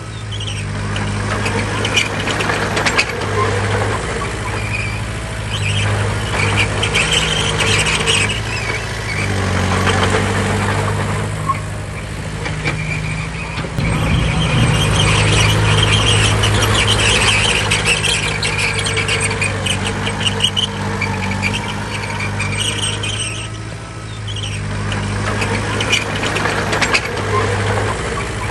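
Bulldozer's diesel engine working under load, with high metallic squealing and clanking from the crawler tracks coming and going. About halfway through the engine works harder for a few seconds.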